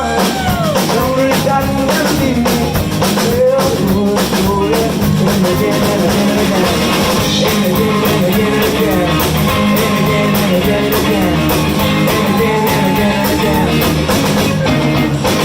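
Live blues band playing, with guitar and a drum kit keeping a steady beat.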